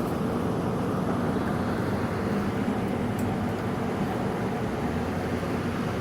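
Steady low rumbling noise with a faint hum, unchanging throughout.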